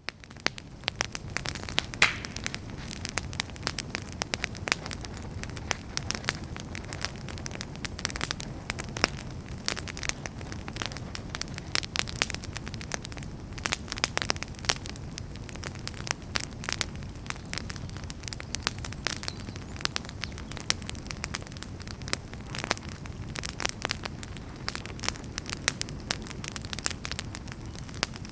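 Wood campfire burning: frequent, irregular crackles and pops of the firewood over a steady low rumble of flames, with a brief high hiss about two seconds in.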